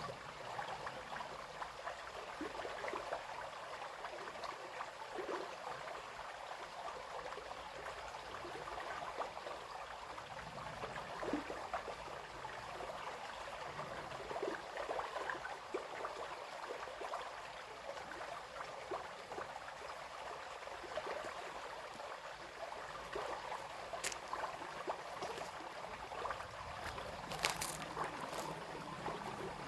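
Small brook babbling and splashing steadily. A few brief sharp ticks come through near the end.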